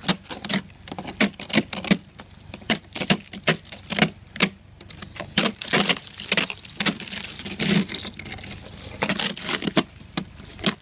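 Ice crunching and cracking: a quick, irregular string of sharp clicks and crackles, about two or three clusters a second.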